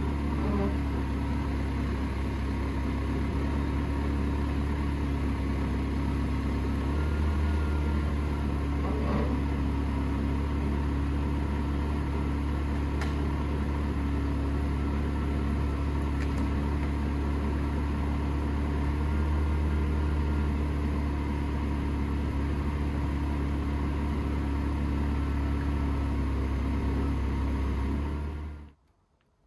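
Ferrari 360's 3.6-litre V8 idling steadily, with two brief small swells in its low note; the sound cuts off suddenly near the end.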